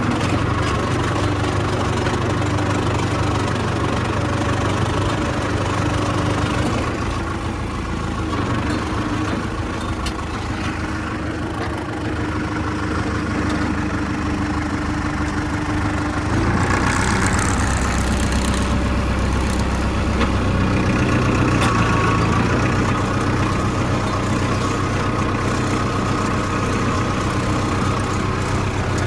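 Farmtrac 6055 CRDi tractor's common-rail diesel engine running steadily. A little past halfway it briefly gets louder and hissier for about two seconds, then settles back to a steady run.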